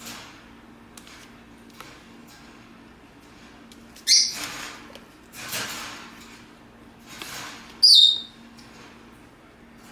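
Rosy-faced lovebird giving short, shrill squawks, one about four seconds in and a louder one near the end, with scratchier noisy bursts between them.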